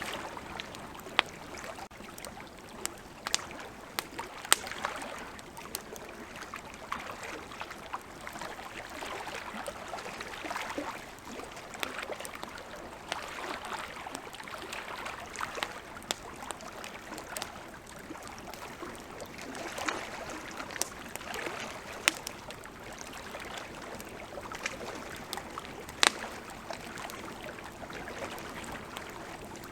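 Wood campfire crackling, with scattered sharp pops over a steady rushing hiss; the loudest pop comes near the end.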